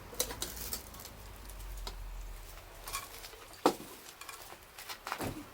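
Irregular sharp clicks and taps, the loudest a single knock a little past halfway, with a few more near the end.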